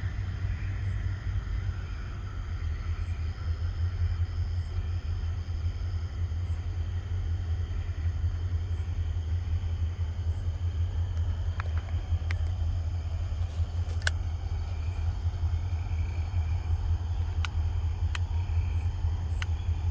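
A steady low engine rumble, with a few short sharp clicks in the second half.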